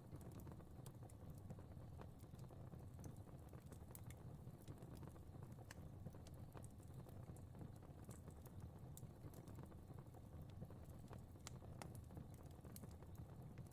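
Fire crackling quietly: a steady low rumble of flames with frequent irregular sharp pops and snaps.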